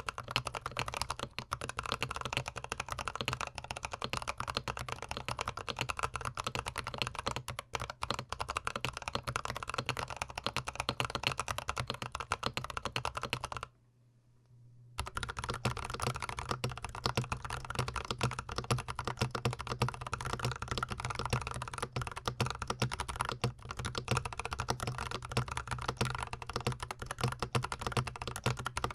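Fast continuous typing on a GMMK PRO mechanical keyboard, a dense patter of key clicks and thocks. It drops out for about a second midway, then resumes.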